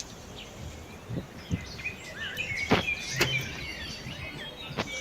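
Small birds chirping in short twittering phrases, with three sharp knocks a little under three seconds in, about half a second later, and again near the end.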